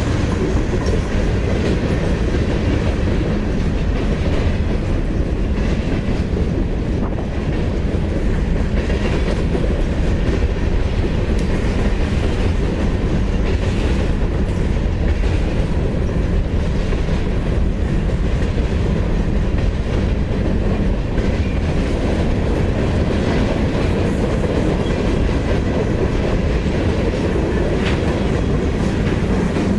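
Freight train rolling past at steady speed: a loud continuous rumble of cars on the rails, with wheels clicking over the track.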